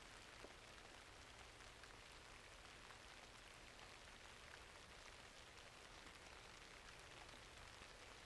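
Faint steady rain, a dense patter of drops with a few sharper ticks scattered through it.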